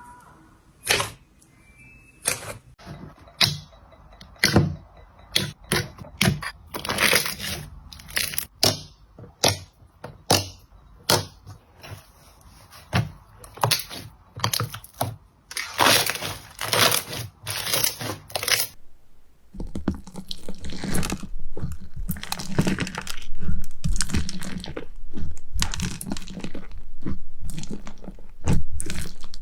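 Slime being squeezed and pressed, giving a run of separate sharp crackles and pops, then from about two-thirds through a denser, continuous crunching.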